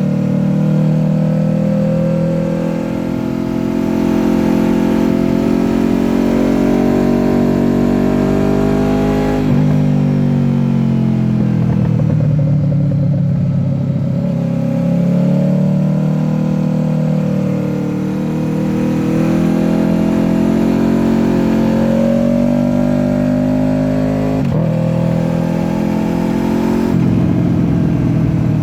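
Honda VFR800F's V4 engine through an SC-Project exhaust under way, the revs climbing steadily, breaking off abruptly about a third of the way in, sagging, then building again, with more abrupt breaks near the end.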